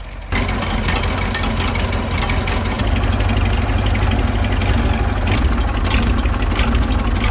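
KAMAZ 4310's V8 diesel idling as it warms up just after a cold start, a steady low rumble with diesel clatter. The sound steps up sharply in loudness about a third of a second in and then holds steady.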